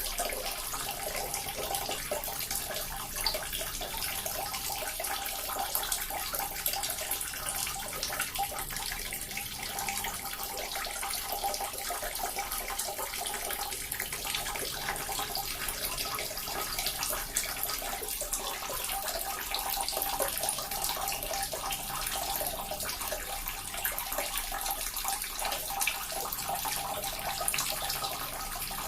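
Small water fountain splashing and trickling steadily, water falling into a pool with a continuous splashy patter.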